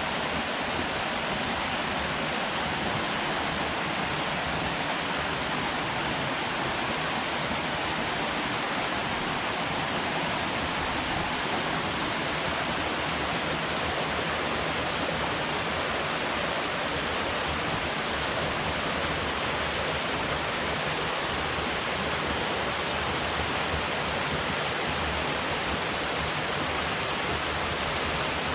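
Steady rushing of water falling from a dam spillway and river flowing away below it, an even unbroken roar of white water.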